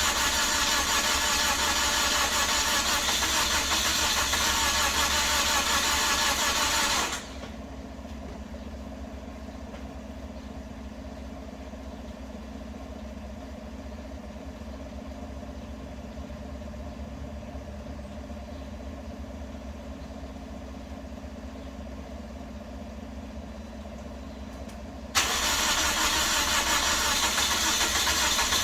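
A Toyota Corolla being cranked without starting, its exhaust sputtering, in two long cranking bursts: one cuts off about seven seconds in, and another starts abruptly about 25 seconds in, with a low steady rumble between. It fails to catch, typical of a flooded engine, as the owner later judged.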